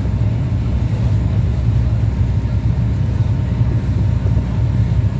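Passenger boat's engine running steadily, a deep, even drone that does not change.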